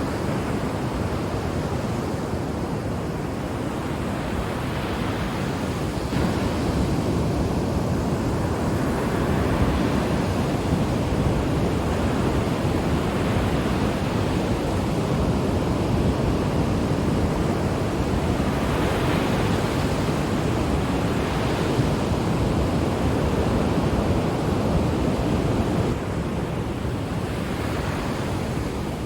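Ocean waves breaking on a shore, a continuous rushing wash that swells with each incoming wave every few seconds, with some wind noise on the microphone.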